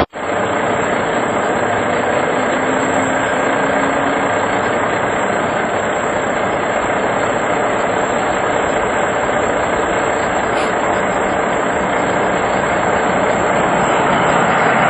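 Boeing 747 jet engines running: a loud, steady rush of noise with a thin, constant high whine above it, growing slightly louder near the end.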